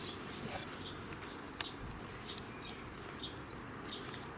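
Small birds chirping, short high calls repeated every half second or so, over a steady outdoor hiss, with a few faint clicks in the middle.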